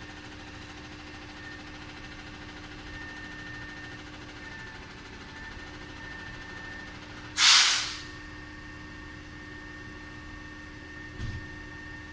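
Recycling truck's engine running steadily, with a loud, short hiss of released compressed air about seven and a half seconds in. A small thump comes near the end.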